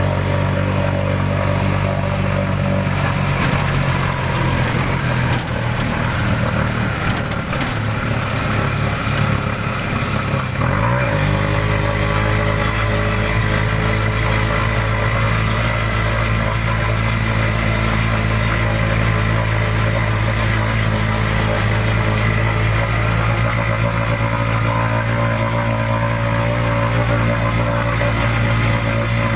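An engine running steadily, its pitch shifting about eleven seconds in.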